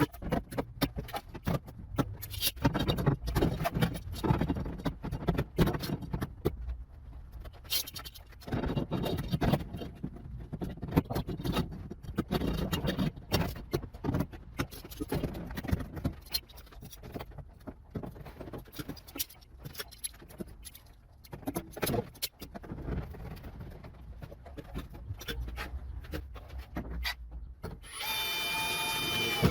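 Irregular clatter, knocks and scraping of hand tools and metal being handled. Near the end a steady small-motor whine starts up.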